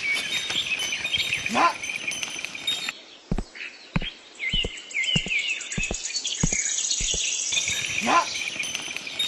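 Outdoor ambience of birds chirping with a steady high insect drone. Midway through, a run of about seven short knocks, roughly one every half second.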